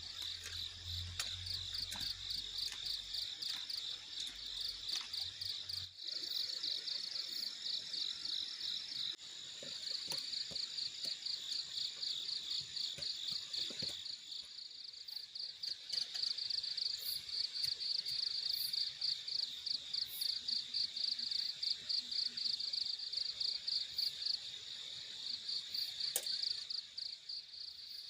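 Night insects such as crickets chirring in a dense, rapidly pulsing chorus, with a thin steady higher-pitched tone from a second insect joining for a few seconds around the middle.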